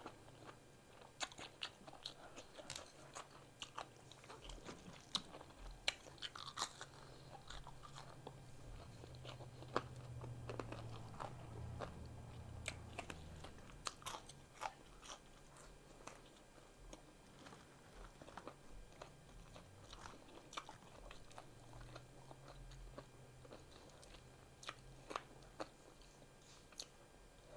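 Close-up chewing of a cheddar hot link sandwich and French fries: faint crunching and biting with many short wet mouth clicks.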